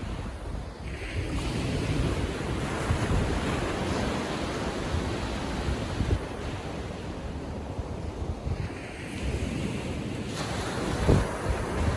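Small waves on a calm Atlantic sea breaking and washing up the beach, the wash swelling about a second in and again near the end, with wind buffeting the microphone.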